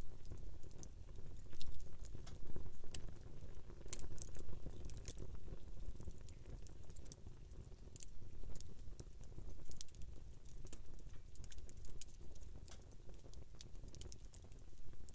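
Wood campfire crackling: irregular sharp pops and snaps, several a second at the busiest, over a low steady rumble.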